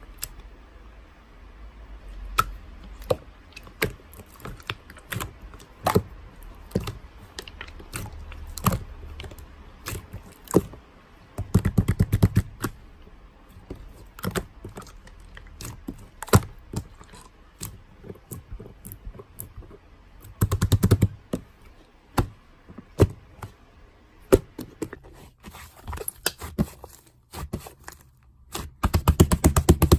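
Irregular sharp taps and clicks, with three short runs of rapid clicking: about a third of the way in, two-thirds of the way in, and at the end.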